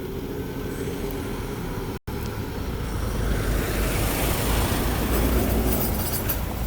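Road traffic noise: a steady rumble of a vehicle that swells and passes about three to five seconds in, then fades.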